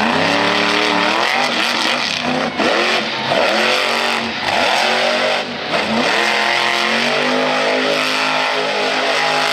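Monster truck engine revving hard, its pitch climbing and dropping several times as the throttle is worked, then held high and steady near the end.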